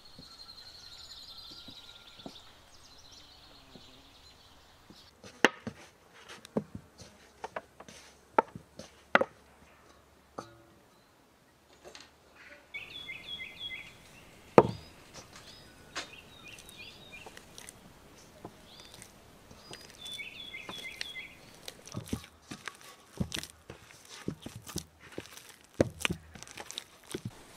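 Irregular sharp knocks and taps from outdoor food preparation, with birds singing. A bird gives a short run of falling chirps twice, about halfway through and again a few seconds later.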